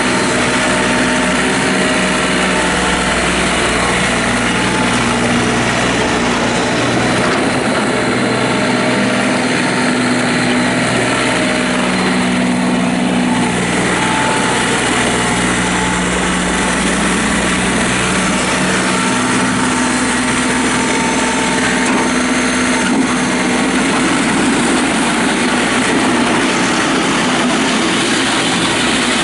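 John Deere 3720 compact tractor's diesel engine running steadily, its engine speed shifting a few times as the tractor is worked.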